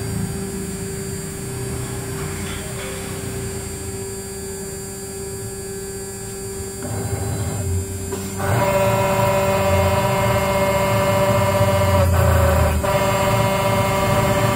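Electric motor whine from a small CNC router, a steady hum that turns louder and higher, with several steady tones, about eight seconds in.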